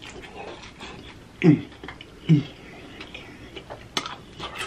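Close-up wet chewing and lip-smacking clicks of a man eating sauced chicken wings, with two short grunts that fall in pitch about a second and a half and two and a half seconds in.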